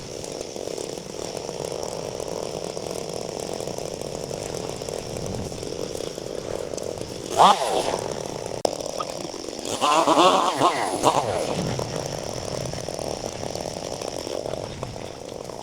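Small petrol engine of a handheld cutting tool running steadily, revved up sharply about halfway through and again for about a second a little later.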